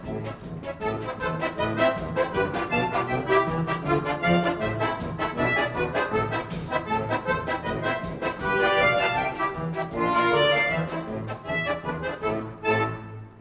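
An accordion orchestra playing in full ensemble, melody over a bass line, then stopping together abruptly near the end.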